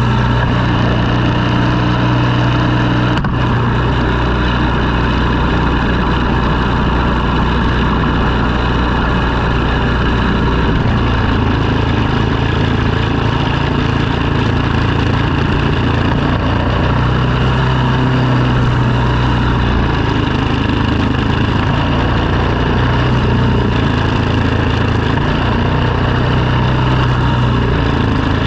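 An engine running steadily under load, with its tone shifting slightly about eleven seconds in.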